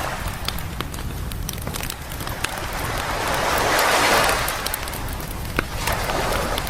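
Sea waves washing onto a beach, one swelling up to a peak about four seconds in and drawing back, while a campfire crackles and pops throughout.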